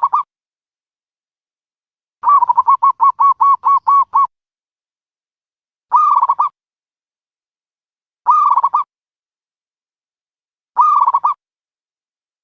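Dove cooing in separate calls. A rapid run of about ten short notes about two seconds in, then three short, slightly falling coos spaced about two and a half seconds apart.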